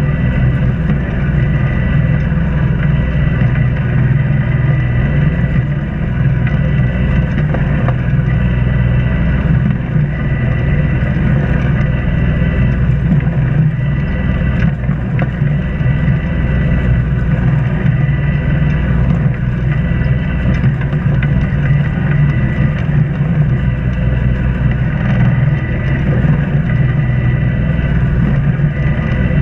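Inboard engine of an Islander 36 sailboat running steadily while motoring: an even low drone with a thin steady whine above it.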